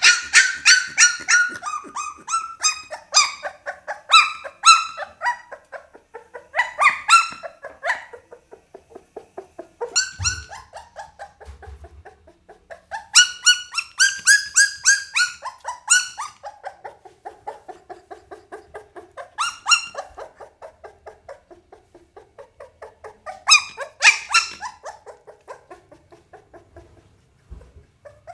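Pit bull puppy whining and yelping in repeated high-pitched bouts of a second or two, with short pauses between them.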